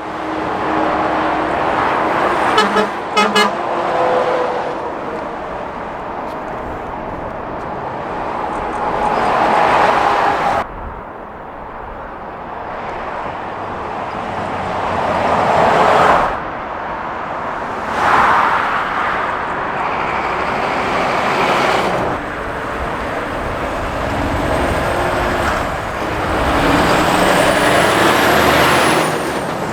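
Lorries and cars passing at speed on a main road, the tyre and engine noise swelling and fading with each pass. Two short horn toots sound about three seconds in.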